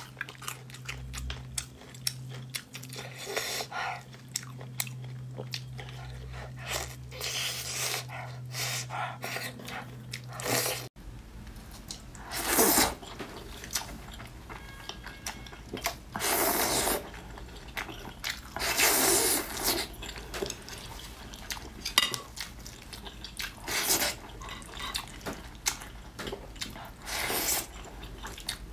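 Close-miked eating: chewing, biting and wet mouth sounds with many small clicks. A steady low hum runs under the first part and stops at a cut about eleven seconds in, after which louder bursts of chewing come every few seconds.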